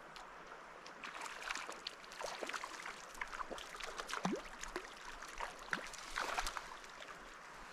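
Mountain river water gurgling and splashing close by, a steady rush dotted with many small irregular plinks and bubbling blips.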